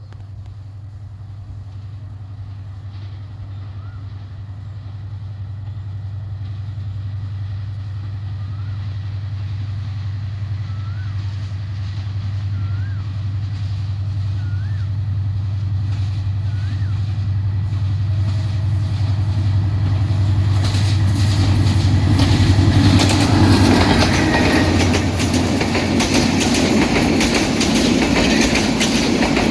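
Meter-gauge diesel train approaching: a steady low engine drone grows louder over about twenty seconds, then the wheels clatter rapidly over the rail joints as it passes close.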